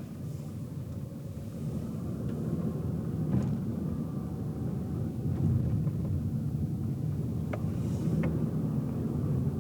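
Car driving, heard from inside the cabin: a steady low rumble of engine and tyre road noise, with a few faint clicks.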